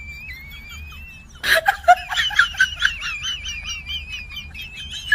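A small bird chirping and whistling: a thin wavering whistle, then from about a second and a half in, a run of quick repeated chirps.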